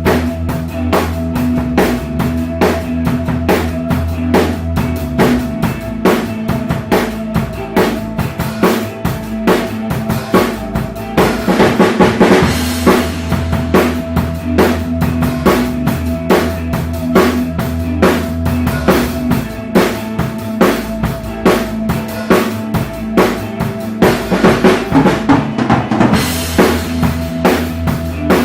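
Drum kit played along to an ambient rock backing track: a steady groove of bass drum and snare strikes over held bass and guitar tones. It turns louder and busier, with a wash of cymbals, about halfway through and again near the end.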